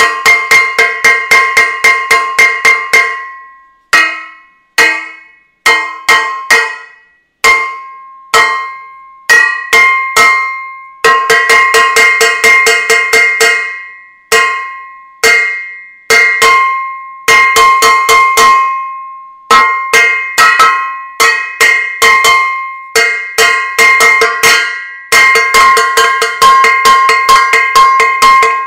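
A metal saucepan banged over and over, each strike ringing with a clanging metallic tone. It comes in quick runs of several strikes a second, slowing to single, spaced blows that ring out longer around the middle, then speeding up again.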